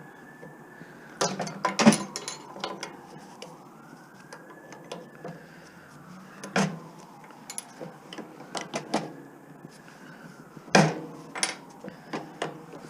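Hand tools clicking and clanking on metal as copper is cut off a scrapped pump: irregular sharp knocks, the loudest about two seconds in, near the middle and near the end. Behind them a faint wail rises and falls about every four to five seconds.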